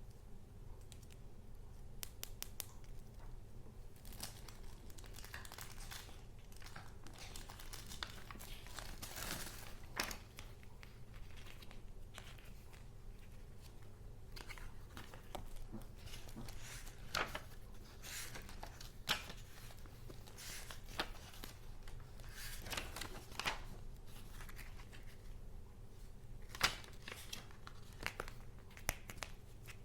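Paper being handled: rustling and crinkling with scattered sharp ticks and a few louder crackles, over a steady low hum.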